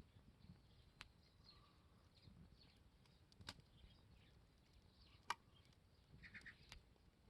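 Wood campfire crackling faintly, with a few scattered sharp pops, the loudest about five seconds in, and a short run of small crackles near the end.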